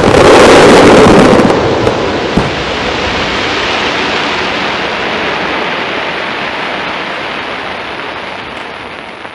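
Fireworks bursting and crackling in a dense volley that is loudest in the first second or so, then slowly dies away.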